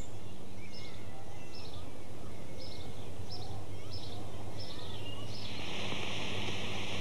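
Birds chirping, a short high call repeated about every half second, over a steady low hum. About five seconds in the sound cuts to a steady hiss.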